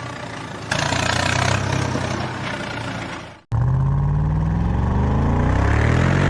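A heavy vehicle engine running, then after an abrupt cut a second engine sound that revs up, its pitch rising steadily.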